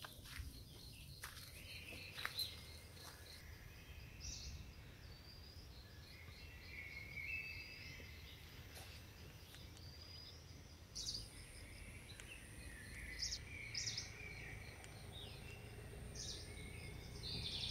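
Faint outdoor ambience of small birds giving scattered short chirps and calls, over a steady low rumble.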